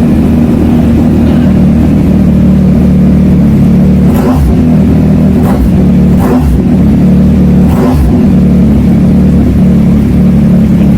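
Yamaha MT-09's 890 cc inline three-cylinder engine running through an aftermarket full exhaust without its dB killer, loud and steady, with four short sharp bursts in the middle.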